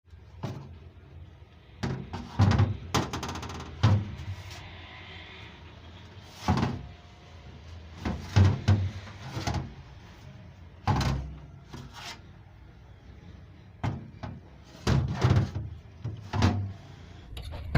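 Car engine parts being handled: about a dozen irregular knocks and clunks as metal parts are set down and moved about, some ringing briefly.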